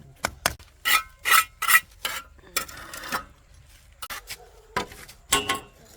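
Rasping scrapes repeated in short strokes at an uneven pace, the loudest a run of three about a second in and another near the end.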